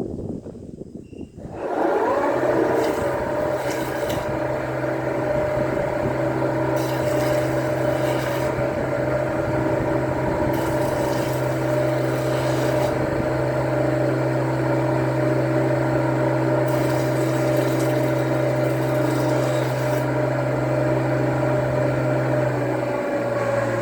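Electric woodworking power tool whose motor starts about a second and a half in, rises quickly to speed and then runs steadily. Stretches of extra hiss come and go every few seconds over the motor's running.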